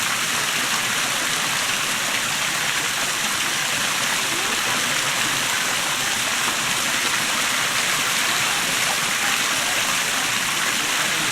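Small waterfall: water falling and splashing in a steady, even rush that does not change.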